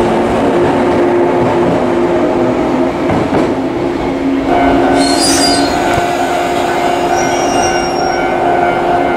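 An electric train pulls out with a steady motor hum and the rumble of its wheels. About halfway through, this gives way to a Shinano Railway 115-series electric train creeping into the platform, with a steady tonal hum and a short high squeal of wheels and brakes as it slows.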